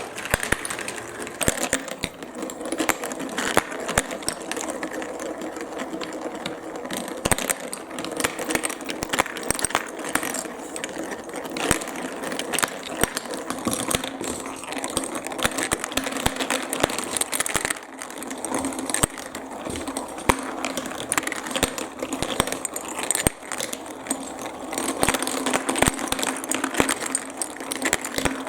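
Marbles rolling and clattering along plastic marble-run tracks: a steady, dense rattle of quick clicks.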